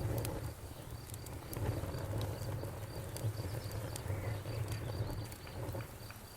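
Bonfire burning with a low rumble and scattered sharp crackles and pops of the burning wood, while crickets chirp in a steady high pulsing trill.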